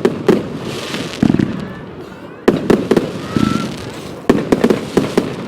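Fireworks exploding: clusters of sharp bangs, about eight in all, each followed by a low rumbling echo, over steady crackling.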